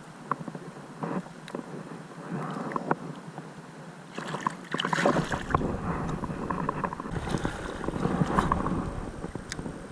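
Creek water splashing and sloshing close to the microphone, with scattered small clicks and knocks. It swells louder from about four seconds in, with low buffeting, and eases off near the end.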